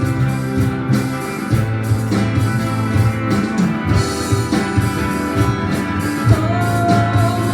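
Live band playing an instrumental passage without vocals: electric guitar, bass and drum kit.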